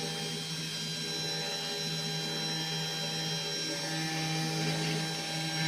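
Spindle motor of a 3018 desktop CNC router running with a steady whine and hum while it carves wood.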